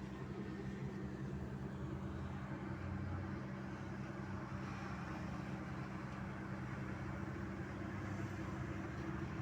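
Large diesel engine of a mining haul truck running steadily at a constant speed, a deep, even drone.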